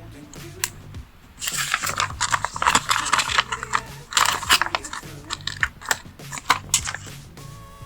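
Sticker sheets and paper being handled close up: rapid crinkling and rustling with sharp clicks, starting about a second and a half in.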